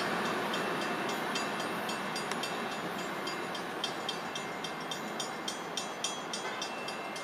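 Rumble of a long freight train moving away, fading steadily. Over it comes a fast, even metallic ticking, about three to four strikes a second, which stands out more plainly in the second half.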